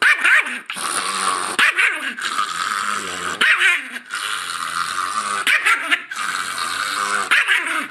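Chihuahua growling and snarling, flaring into sharper snarls about every two seconds: a warning against a hand reaching toward the woman it is guarding.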